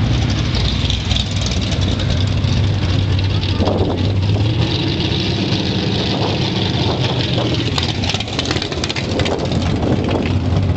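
Two drag cars idling steadily side by side while staged at the starting line, one of them a 1973 Plymouth Duster with its 340 V8.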